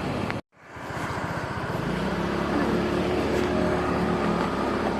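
Steady vehicle engine and road noise while travelling. The sound cuts out completely for a moment about half a second in. From about two seconds in, an even engine hum sits over the noise.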